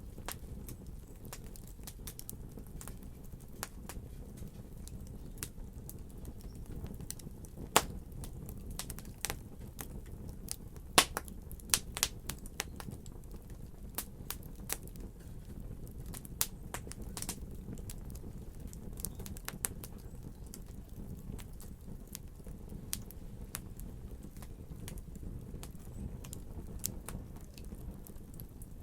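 Wood fire crackling: irregular sharp pops and snaps over a steady low rumble of the burning fire, with a few louder pops about 8, 11 and 12 seconds in.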